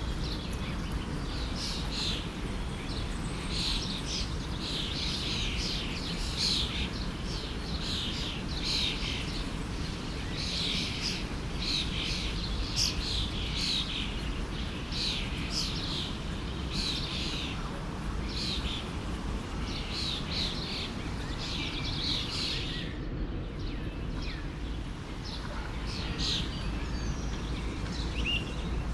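Songbirds chirping repeatedly, short high calls coming every second or so, over the steady rush of a forest stream.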